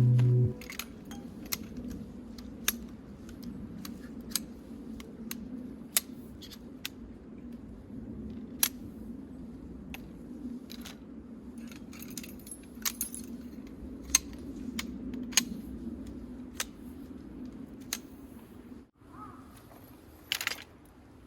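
Light clinks and jingles of small metal items being handled, coming at irregular moments, with a brief gap near the end.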